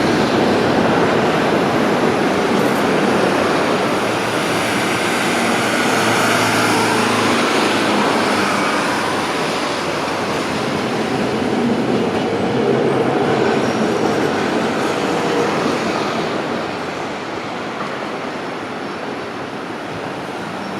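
Rush-hour street traffic at a tram intersection: Hiroshima streetcars and city buses rolling through, a dense continuous rumble with some faint whining tones, easing off somewhat in the last few seconds.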